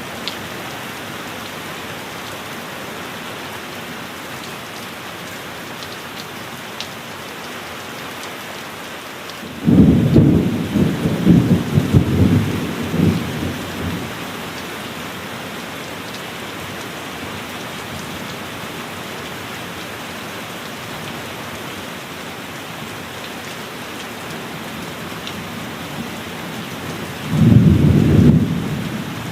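Heavy rain falling steadily, with two loud claps of thunder: a sharp crack about a third of the way in that rolls on for several seconds, and a shorter one near the end.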